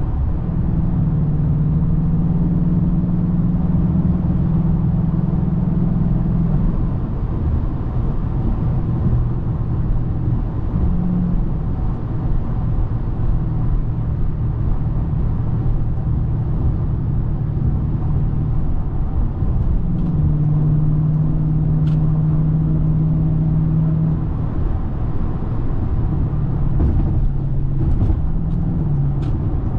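2010 Hyundai Genesis 4.6 V8 engine running with road noise while driving, its engine note holding steady, fading about seven seconds in and returning around twenty seconds in. A few faint clicks near the end.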